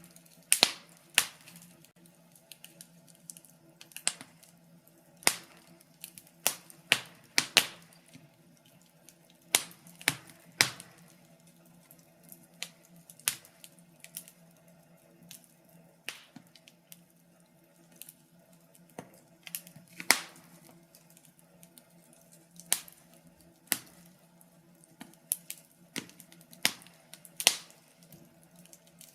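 Wood fire crackling in a fireplace: irregular sharp pops and snaps, about one a second and varying in strength, over a faint steady hum.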